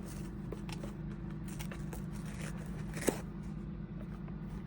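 Pick-apart foam being torn out by hand a section at a time: faint crackling tears with one sharper snap about three seconds in, over a steady low hum.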